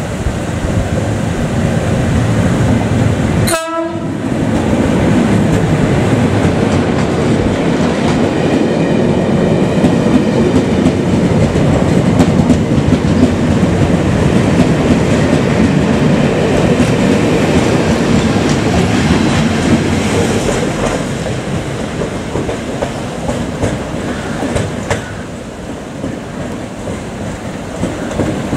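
GB Railfreight Class 73/9 locomotives and test coaches passing close at speed: a loud, steady running noise of wheels on rail. It breaks off sharply about three and a half seconds in, then resumes, and eases off over the last several seconds.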